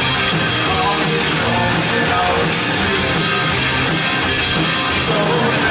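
Live worship band playing with drums and guitar, between sung lines.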